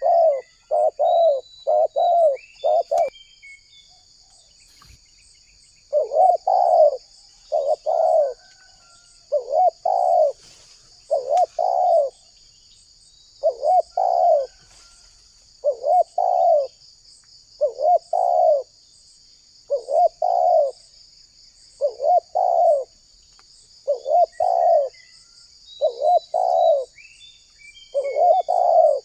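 Spotted dove cooing, repeating its low coo phrases about once a second after a pause of about three seconds early on. A steady high-pitched insect drone and a few faint chirps of small birds run behind it.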